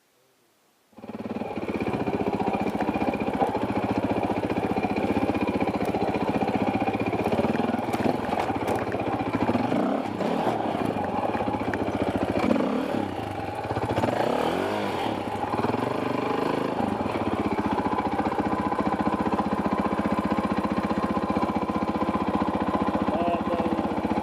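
Enduro dirt bike engine running, starting abruptly about a second in after near silence, its revs rising and falling through the middle and then holding steadier.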